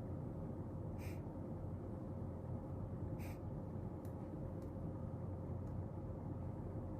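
Steady low room hum with a faint constant tone, broken by two brief soft clicks, about one second and three seconds in, and a couple of fainter ticks after.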